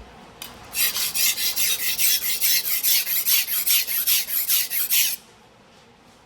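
Steel knife blade, a 270 mm single-bevel sujihiki, rubbed rapidly back and forth on a whetstone, about four or five strokes a second. The strokes start just under a second in and stop abruptly about five seconds in.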